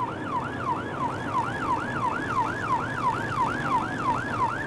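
Police patrol car siren on a fast yelp: a quick falling sweep about three times a second, over a steady hum of engine and road noise.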